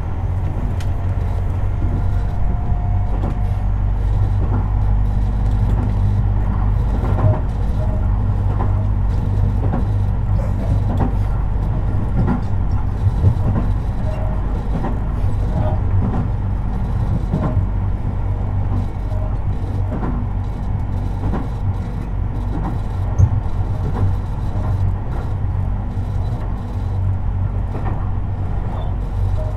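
Tobu 50090 series electric commuter train running, heard from beneath the car floor: a steady low rumble with a few steady tones above it, and short knocks every second or two.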